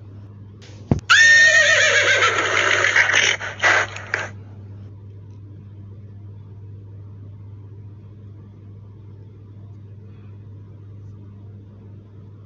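A horse whinnying once, a loud call about a second in that lasts about three seconds and falls in pitch, starting with a sharp click. A faint steady low hum follows.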